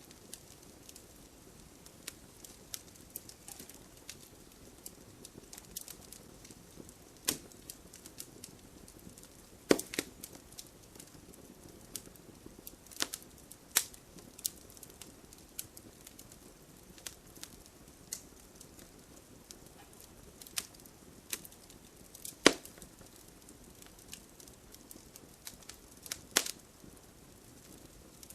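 Fire in a fireplace crackling over a soft steady hiss, with irregular sharp pops, a few of them much louder than the rest.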